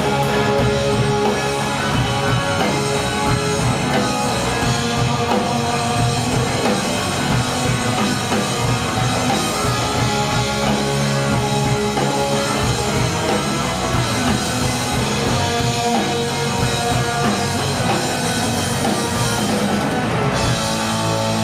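Live rock band playing an instrumental passage, with electric guitars, bass and drum kit and no vocals.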